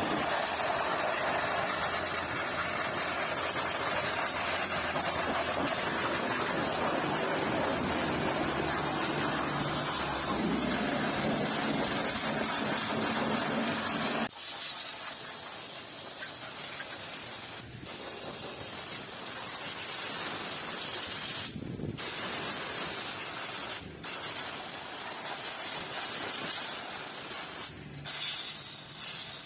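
High-pressure spray gun hissing steadily on the car's engine bay, with a low rumble under it for about the first half. It then changes to a thinner, higher hiss that is cut off briefly several times as the trigger is let go.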